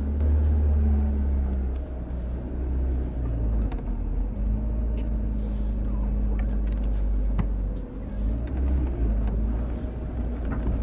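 Steady low rumble of a motor vehicle, with a faint steady hum and a few light clicks.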